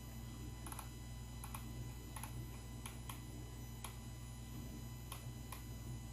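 Faint clicks of a computer mouse while browsing, about a dozen at irregular spacing, several in quick double clicks, over a steady low hum.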